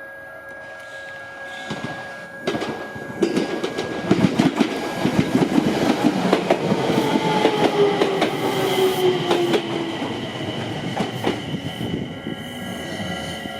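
Enshu Railway 2000-series electric train passing close by, its wheels clicking rapidly over rail joints. The sound swells about two seconds in, peaks in the middle with a slowly falling tone, and fades near the end. Steady warning tones ring underneath.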